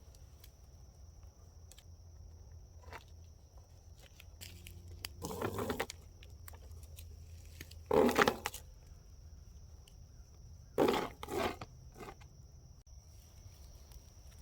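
Four short bursts of rustling and crunching from handling gear and bags, over a steady high buzz of swamp insects.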